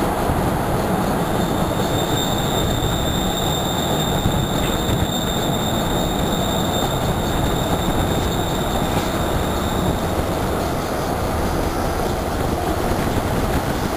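Passenger train running behind a diesel locomotive, heard from an open carriage window: a steady rumble of the train on the track, with a thin high steady squeal of wheels on the rail that sets in about a second in and stops about ten seconds in.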